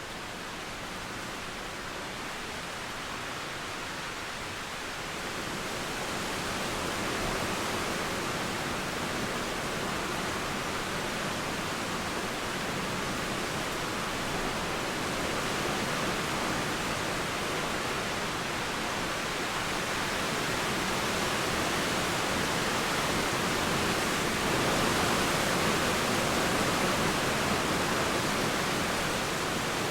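Steady rain falling, mixed with a flowing river, as an even hiss that grows a little louder about six seconds in.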